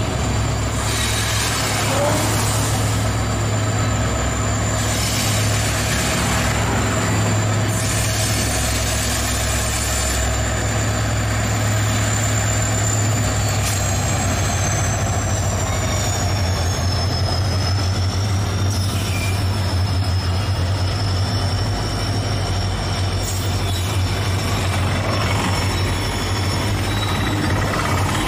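A pair of EMD WDG4-class diesel locomotives passes hauling a rake of tank wagons, with a steady low engine drone. A thin high whine drops in pitch about halfway through as the locomotives go by, and the tank wagons then keep rolling past.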